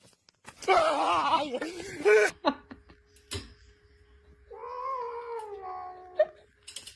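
A cat yowling: a loud call with a fast-wavering pitch lasting nearly two seconds, then after a pause a second, steadier drawn-out yowl.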